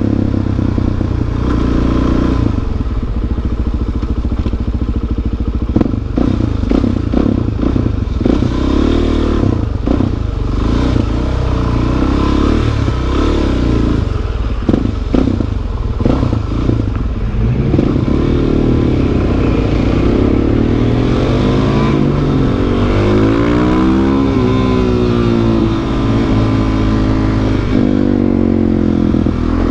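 Suzuki DR-Z400SM's single-cylinder four-stroke engine running under way, heard from the rider's seat, with its pitch rising and falling several times in the second half as the throttle opens and closes through the gears.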